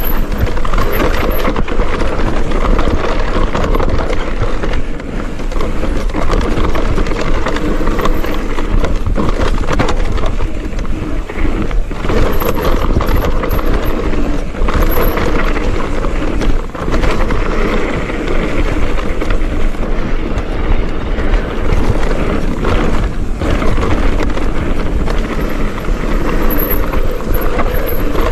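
Mountain bike riding down a trail, heard from a camera on the rider or bike: steady tyre and wind noise on the microphone with frequent rattles and knocks from the bike.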